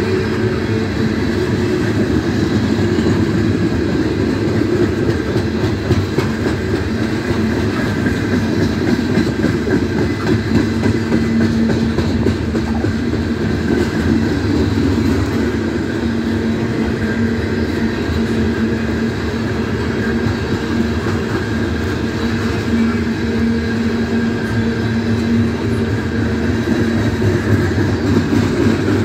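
Loaded coal hopper cars of a freight train rolling past at steady speed: a continuous rumble with the clatter of steel wheels over the rails.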